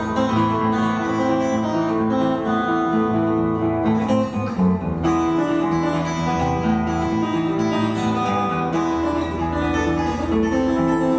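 Acoustic guitar music, plucked notes and chords played steadily.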